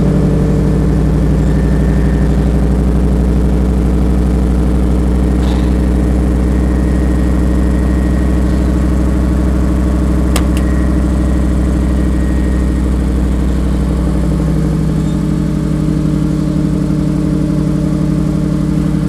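Cold-started Pontiac Firebird Trans Am's 305 small-block V8, throttle-body injected and with no catalytic converter, idling steadily through its exhaust. The idle eases slightly lower about 15 seconds in as it warms.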